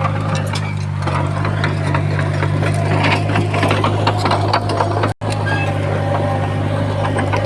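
Heavy earthmoving machine's diesel engine running steadily, with irregular clanking and rattling over it. The sound cuts out for an instant about five seconds in.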